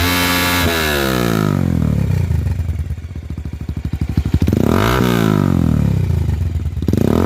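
Kawasaki-Bajaj Rouser 180's single-cylinder engine revving through an Akrapovic M1 slip-on muffler with the silencer insert removed. It is held at high revs at first, drops back to idle within about two seconds, is blipped up and down again about five seconds in, and rises sharply once more near the end. The owner notes an exhaust leak at the header elbow joint.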